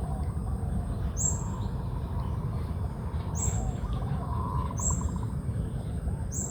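Songbirds calling: a short, high call repeated four times about a second and a half apart, with a lower trill about four seconds in, over a steady low rumble.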